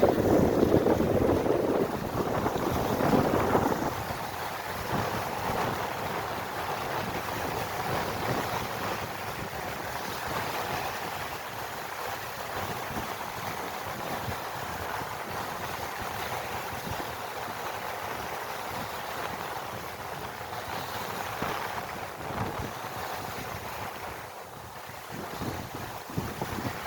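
Strong wind blowing across a lake and buffeting the microphone, with waves on the water; the gusts are strongest in the first few seconds.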